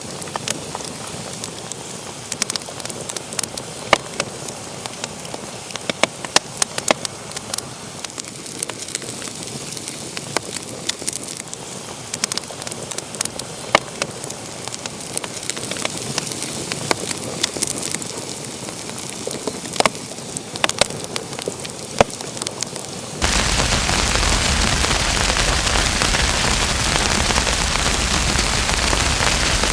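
Wood fire burning in a fireplace, crackling with frequent sharp pops over a soft hiss. About 23 seconds in, the sound switches abruptly to a louder, steady hiss with no crackles.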